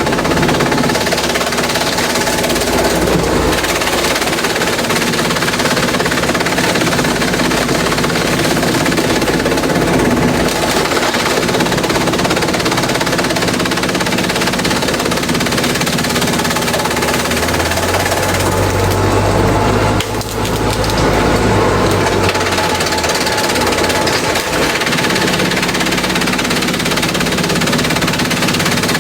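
Industrial bamboo shredder running under load, its engine drone overlaid with loud, continuous rapid cracking and splintering as bamboo is fed through. The noise dips briefly about two-thirds of the way through, then resumes.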